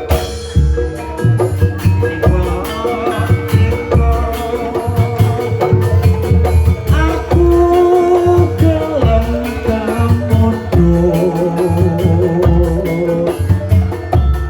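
Javanese gamelan music for an ebeg dance: a regular drum beat with sharp repeated strokes under a held, wavering sung melody.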